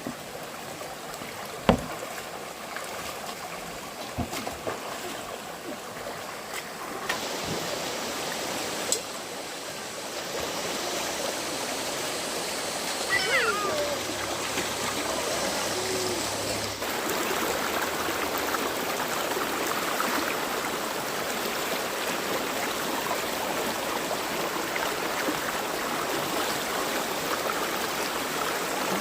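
Fast-flowing stream water rushing steadily, getting louder about seven seconds in and again a little past halfway. A single sharp knock about two seconds in.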